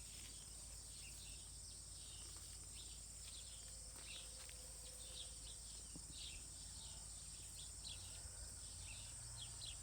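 Small wild birds chirping over and over in short, faint high notes, over a steady high-pitched insect drone.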